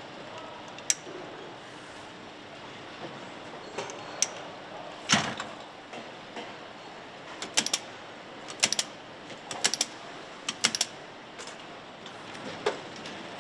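Engine assembly-line machinery: sharp metallic clicks and clanks at uneven intervals, several coming in quick pairs and threes in the second half, over a steady factory hum.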